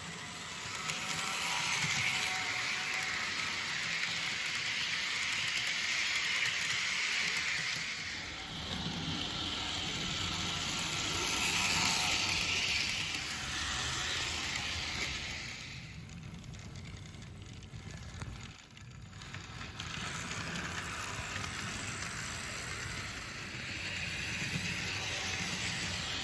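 Model train running along the layout's track: a steady hiss of wheels on rail over a low motor rumble, dropping quieter for a few seconds about two-thirds of the way through, then picking up again.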